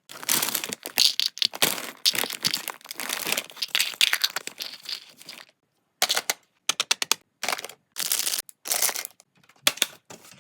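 Plastic packaging crinkling and crackling as items are handled, first steadily for about five seconds, then in short bursts broken by sudden cuts to dead silence.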